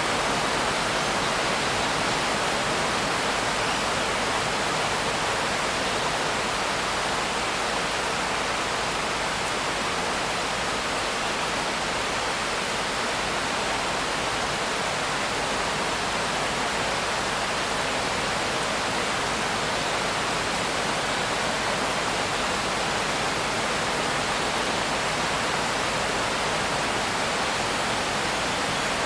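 Steady rain with an even hiss and no separate drops or thunder standing out.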